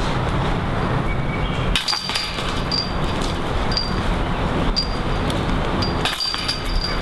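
Wind rumbling on the microphone, with faint high chirps about once a second from about two seconds in.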